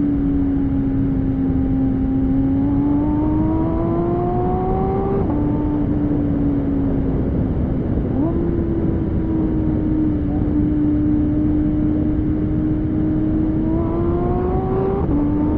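Porsche 718 Spyder's 4.0-litre flat-six running through a Kline valved exhaust with OPF-delete pipes while the car is being driven. The engine note climbs slowly and drops sharply at a gear change about five seconds in, jumps up about three seconds later, holds steady, then climbs again and drops at another shift near the end, over a steady rumble of road and wind noise.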